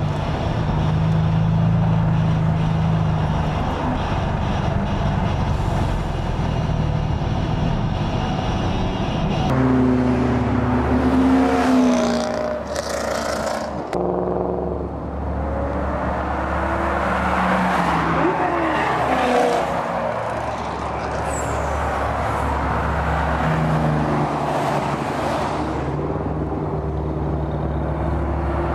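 Car engines: a steady engine drone at first, then, after an abrupt change about a third of the way in, engines revving with pitch rising and falling as cars accelerate past.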